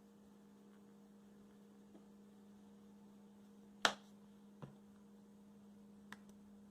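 Steady low electrical hum with three sharp clicks, the loudest about four seconds in, from seasoning containers being handled and set down.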